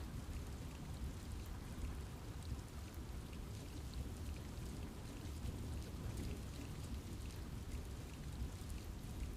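Steady rain in a forest, with a low rumble and scattered drops ticking on leaves.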